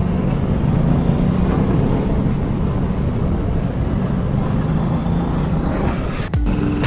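Motorcycle engine running steadily at road speed with wind rush, a constant low rumble. It breaks off abruptly near the end as a different sound cuts in.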